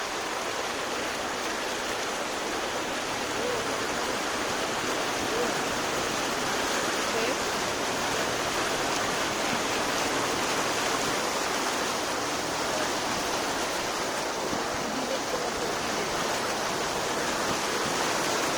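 Steady rushing of flowing water, an even hiss with no breaks or pauses.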